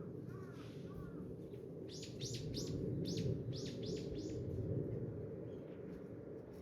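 A small bird chirping: a quick run of about seven sharp, falling notes starting about two seconds in, over a steady low rumble.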